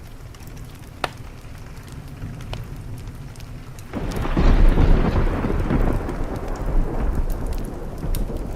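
Wood fire crackling with sharp pops, one louder pop about a second in, over steady rain. About four seconds in, a clap of thunder breaks suddenly and rolls on as a loud, low rumble that slowly fades.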